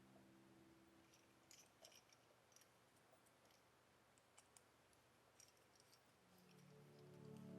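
Near silence with a few faint, small clicks scattered through it; soft music fades in near the end.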